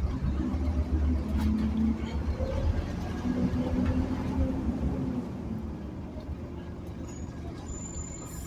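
Scania Omnicity bus's diesel engine pulling hard under load, then easing off about five seconds in to a quieter, steady running.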